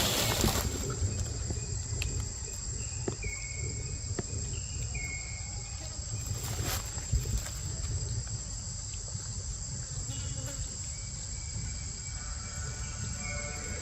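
Insects droning in a steady high-pitched tone, with short high chirps every second or two over a low rumble, and a couple of brief rustles, one at the start and one about seven seconds in.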